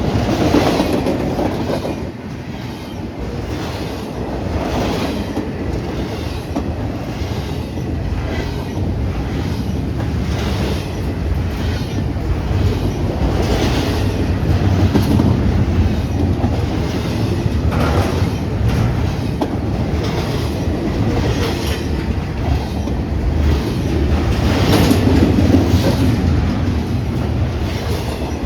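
A train rolling past, its wheels clacking over rail joints in a run of clicks about once a second over a steady low rumble, louder near the start and again near the end.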